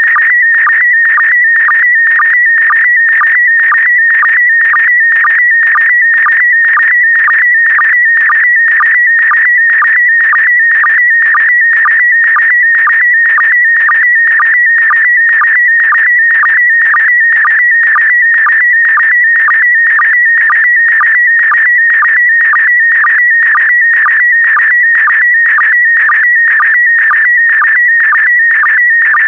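Slow-scan television (SSTV) image signal in PD120 mode: a continuous warbling tone around 2 kHz, broken by a short sync pulse about twice a second, each pulse marking the start of a new pair of picture lines.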